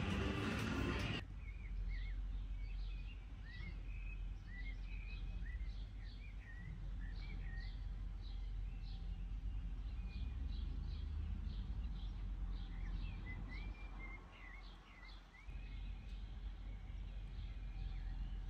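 Music cuts off about a second in. After that, small birds keep up many short, rising and falling chirps over a steady low rumble.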